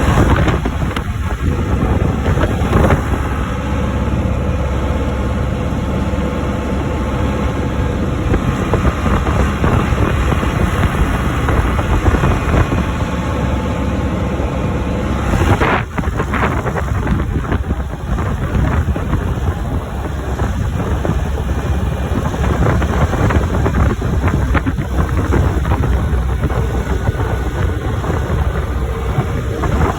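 John Deere tractor engine running steadily under way, with wind buffeting the microphone. The level dips briefly about halfway through.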